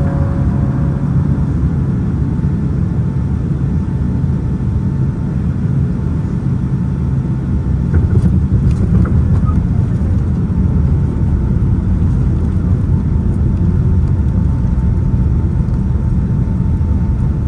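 Steady low rumble of a moving vehicle, with a faint steady whine over it.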